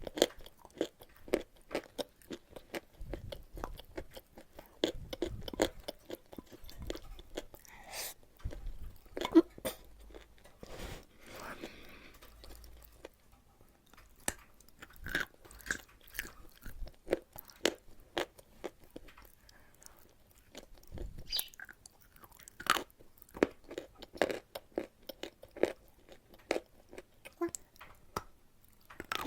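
Close-miked crunching and chewing of chalk eaten with a paste: many sharp, irregular bites and crunches, with a softer, quieter stretch of chewing about halfway through.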